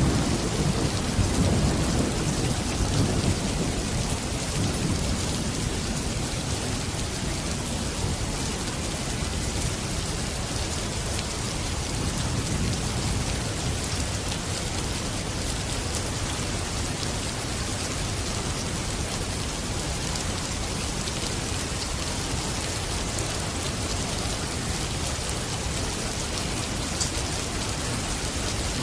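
Steady rain falling, with a low rumble of thunder in the first few seconds that fades out.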